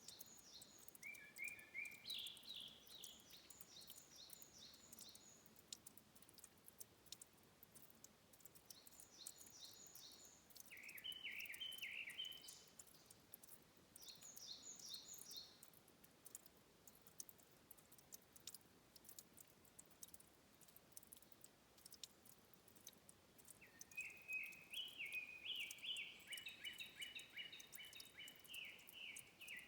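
A songbird singing a few bursts of rapid repeated high notes, each phrase lasting one to five seconds, with the longest near the end. Faint scattered high ticks sound between the phrases.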